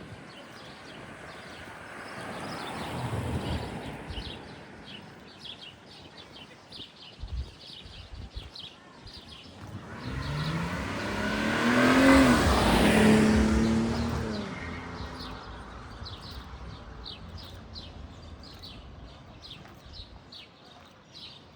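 A car passes along the street: its engine and tyre noise swell to a peak about halfway through, then fade. A fainter vehicle passes a few seconds in.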